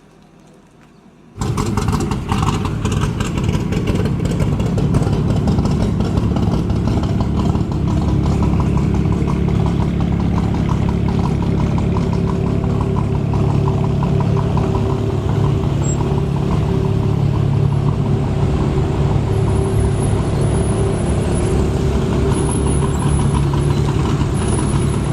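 Jaguar F-Type sports car engine starting with a sudden loud burst about a second in, then idling loudly and steadily with a deep exhaust rumble.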